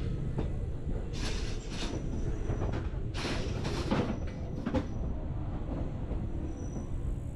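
Narrow-gauge Bernese Oberland Railway train running, heard from on board: a steady low rumble with several short bursts of wheel-and-carriage clatter in the middle.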